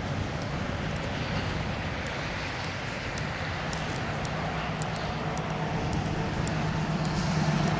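Steady outdoor noise: a broad rumble and hiss, with a low engine-like hum that grows louder toward the end.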